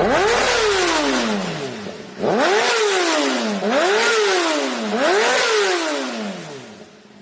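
MotoGP racing motorcycles' four-cylinder engines at high revs going past one after another, each swooping up in pitch and then falling away, four times in all. The last one fades out near the end.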